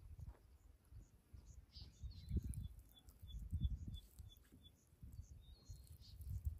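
Faint bird chirping outdoors, with a short run of evenly spaced high chirps near the middle, over a few low muffled rumbles.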